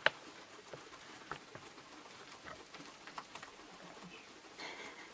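Guinea pigs moving about in their enclosure: scattered small clicks and rustles, with a short squeaky guinea pig call near the end.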